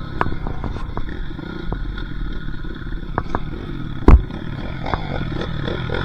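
Dirt bike engine running and revving, with clattering knocks over it and one sharp thump about four seconds in.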